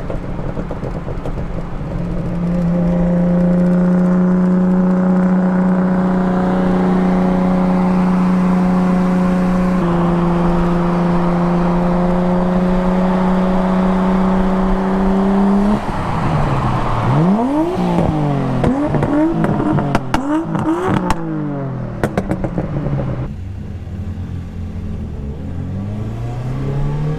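A car engine held at steady high revs for several seconds, then revved up and down in quick blips with sharp exhaust cracks, before dropping back to lower blips.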